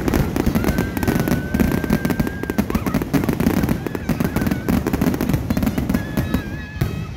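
Fireworks display: aerial shells bursting in a rapid, continuous barrage of bangs and crackling. A high steady whistle sounds over the bangs for about two seconds starting half a second in, and briefly again near the end.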